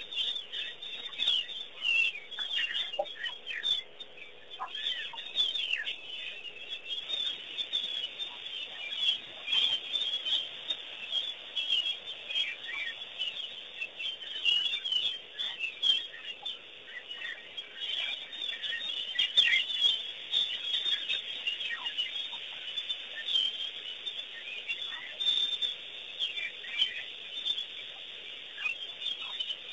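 A chorus of wild birds chirping, many short, high calls overlapping.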